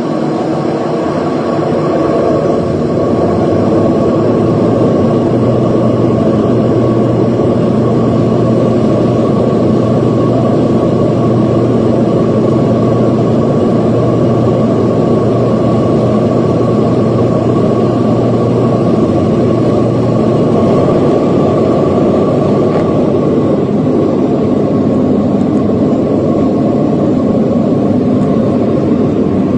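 Airliner's jet engines running at high power, a steady noise with a held whine, growing louder over the first few seconds and then holding level.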